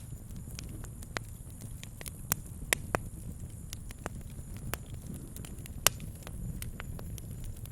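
Wood campfire crackling: irregular sharp pops and snaps, a few louder ones standing out, over a low steady rumble of the burning fire.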